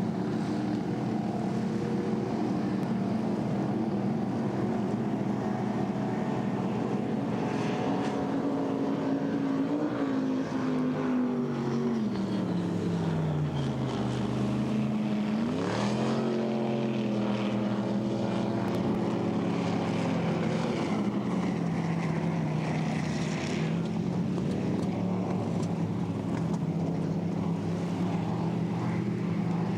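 Inboard racing boat engines running loud and steady. About halfway through, one engine's pitch sinks over a few seconds and then revs sharply back up before settling.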